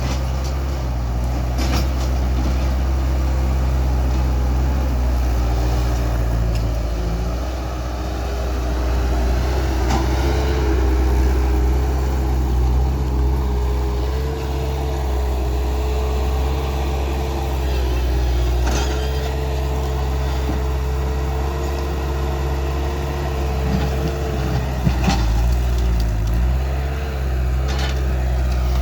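Skid steer loader's diesel engine running steadily under work. A steady whine joins it about six seconds in and drops away near the end, with occasional knocks.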